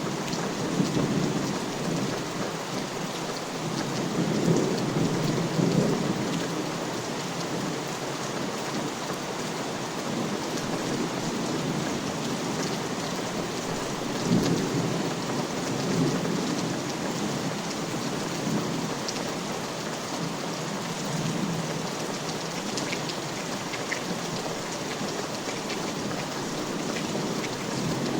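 Steady rain falling, with low rumbles of thunder swelling about four seconds in and again around fourteen seconds.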